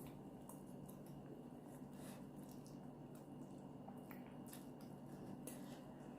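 Faint wet mouth sounds of someone eating spicy instant noodles: soft chewing and small scattered clicks, over a steady low hum.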